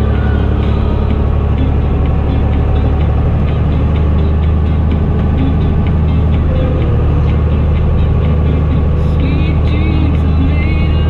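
Fendt Favorit 926 Vario tractor's diesel engine running steadily under load through an open exhaust, a deep, even drone. Light clicking and rattling runs through it, with a few short high squeaks near the end.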